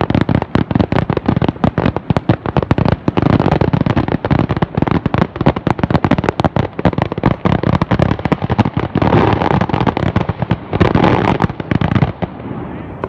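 Fireworks bursting in rapid, continuous succession, a dense barrage of bangs and crackle that drops off about a second before the end.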